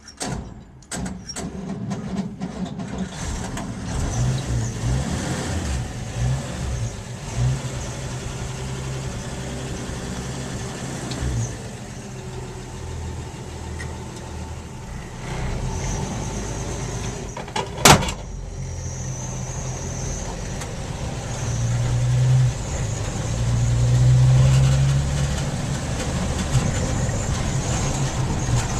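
1955 Chevrolet 3100 panel truck's 235 straight-six engine running, its note swelling louder now and then. One sharp click sounds about two-thirds of the way through.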